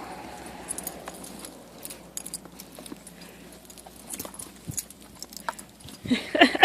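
Dog collar tags jingling in short scattered clicks as terriers romp in snow, then a terrier barks a couple of times near the end.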